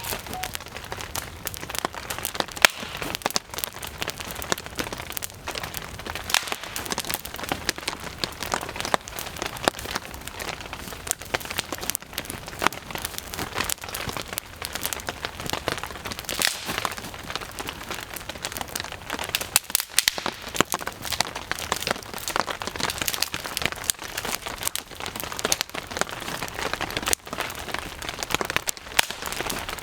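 Steady rain falling, an even hiss peppered with many sharp, irregular drop ticks.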